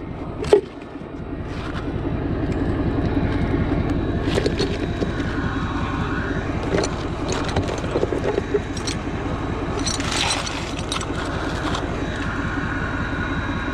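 A vehicle engine running steadily, swelling a little about two seconds in, with a few short clicks and knocks over it.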